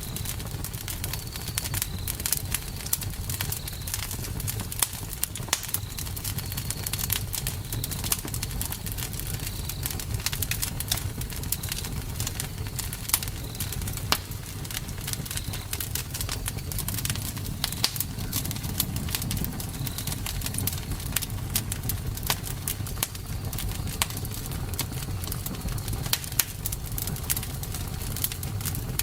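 Wood fire crackling with many sharp pops over a steady low rumble, with faint high chirps repeating every second or so.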